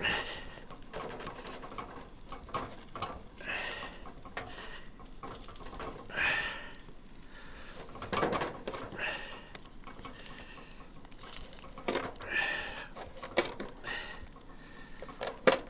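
Scattered clicks, clinks and scrapes of utensils and food being handled for cooking, with a few short rasping strokes every few seconds.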